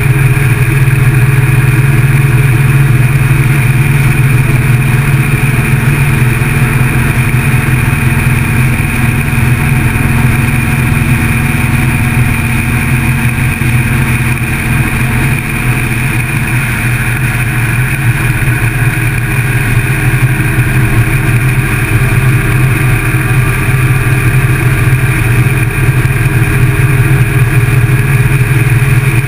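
Motorcycle engine running steadily, picked up by a camera mounted on the bike.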